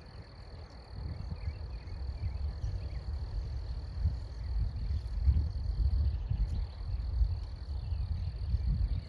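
Outdoor garden ambience: an uneven low rumble, with a faint steady high-pitched buzz like an insect's drone running through it.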